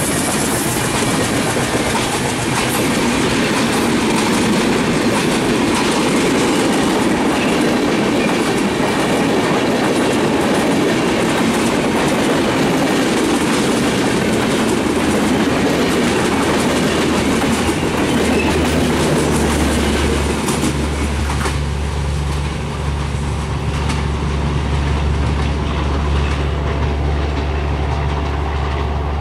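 LHB passenger coaches of a long train rolling past at speed: a loud, steady clatter of wheels over the rail joints with rushing noise. About two-thirds of the way through, the clatter thins and a low steady hum takes over as the end of the train moves away.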